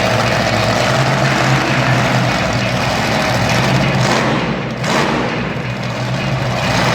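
Monster truck engine running loud and steady, echoing in an arena.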